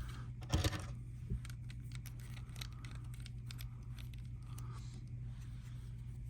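Faint small clicks and handling noises of plastic LEGO bricks being fitted together, over a steady low hum. A brief louder sound comes about half a second in.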